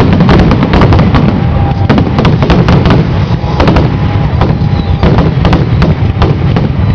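Fireworks display going off in a rapid, unbroken barrage: many sharp bangs and crackles a second over a constant heavy rumble.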